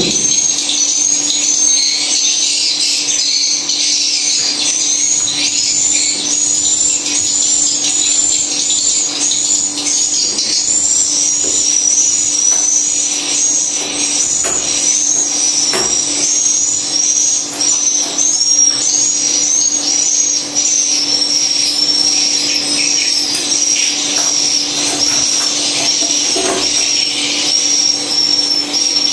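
High-pitched swiftlet calls, chirps repeating evenly about twice a second, over a steady low hum, with a few short knocks.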